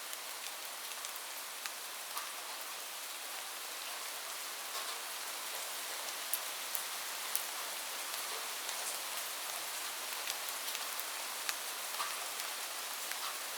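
Steady rain falling, a dense even hiss with scattered sharper ticks of single drops.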